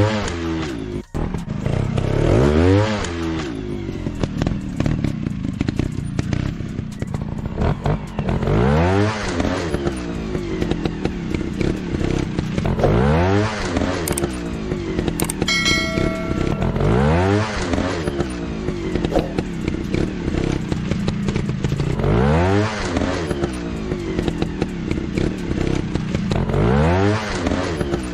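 Motorcycle engine revving up and falling back again and again, about every four to five seconds, over a steady running note. A short bright chime of a few tones sounds about halfway through.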